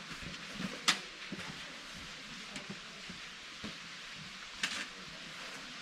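Footsteps scuffing on a rocky hiking trail: a few short sharp steps, the loudest about a second in and another near the end, over a steady faint outdoor hiss.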